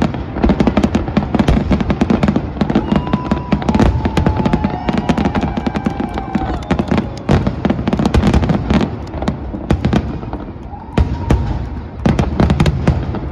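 Aerial fireworks display: a dense run of sharp bangs and crackling shell bursts over a constant low rumble, easing briefly about ten seconds in before picking up again.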